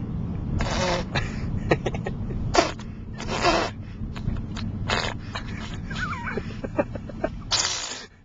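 A baby making funny breathy noises: about five short huffing, sneeze-like bursts, with a brief high squeak about six seconds in. Underneath is the steady low rumble of a moving car's cabin.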